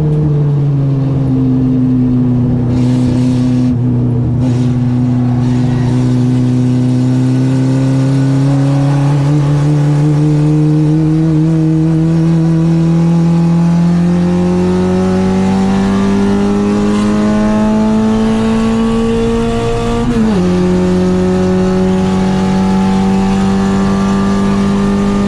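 Citroen AX's 8-valve four-cylinder engine on twin Weber 40 carburettors, run hard on track: the revs ease off just after the start, then climb slowly and steadily for most of the stretch, drop briefly about twenty seconds in, and hold steady after.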